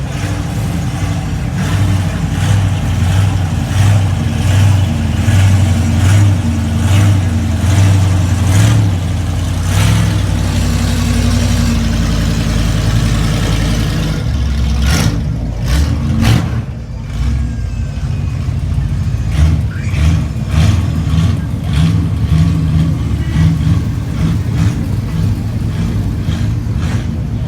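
Car engines running loudly, the low engine note swelling and easing again and again, with a short lull about two-thirds of the way through.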